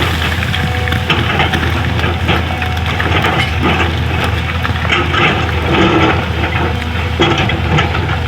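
Excavator's diesel engine running steadily, with irregular crunching and knocking as the bucket digs into and breaks up old road surface.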